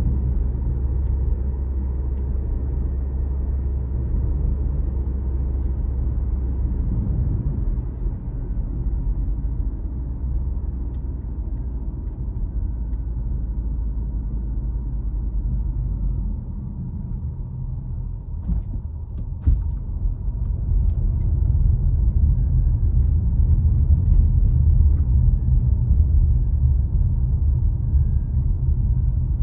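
A car driving on a road: a steady low rumble of engine and tyres that eases off a little around the middle and grows louder again over the last third, with a few faint clicks along the way.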